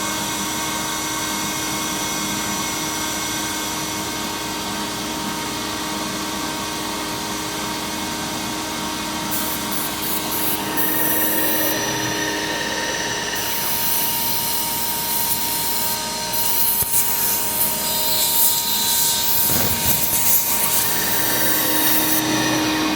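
CNC router spindle running with a steady whine while the bit cuts aluminum composite panel. From about ten seconds in, a harsh high cutting hiss comes and goes, loudest in the second half.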